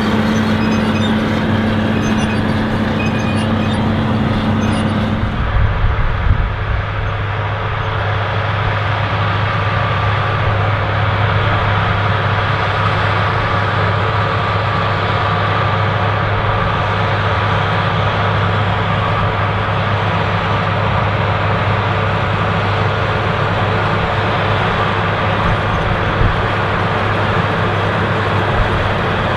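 Allis-Chalmers 7080 tractor with a repowered Cummins 8.3-litre six-cylinder diesel running steadily under load while pulling a chisel plow through the field. The drone shifts about five seconds in, losing one of its tones.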